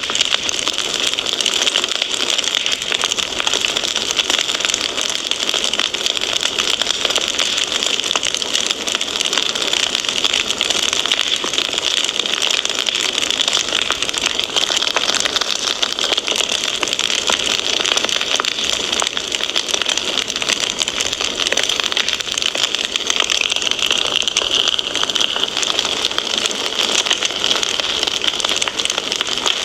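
Fireplace wood fire crackling steadily: a dense, continuous hiss thick with fine pops and crackles.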